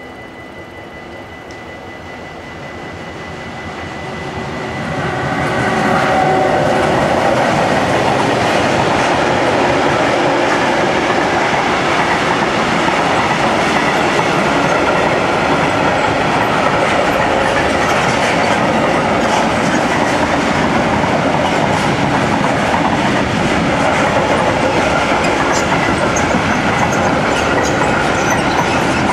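Freight train behind an electric locomotive approaching and passing close by, growing louder over the first six seconds. A long run of tank wagons and covered freight wagons then rolls past with steady wheel clatter over the rail joints and occasional brief high wheel squeals.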